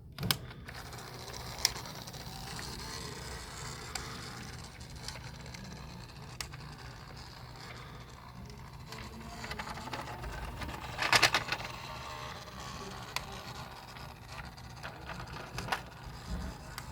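Small motor running steadily, with scattered clicks and a louder clatter about eleven seconds in.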